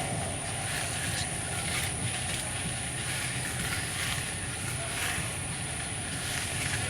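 An engine idling steadily, with a constant high-pitched tone above it.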